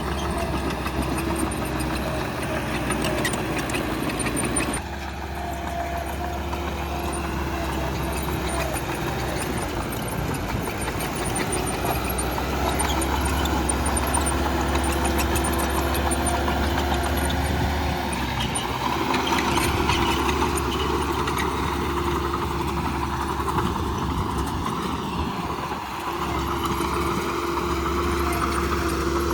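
Heavy diesel engine of earthmoving machinery running steadily, with abrupt changes in the sound about five seconds in and again near the end.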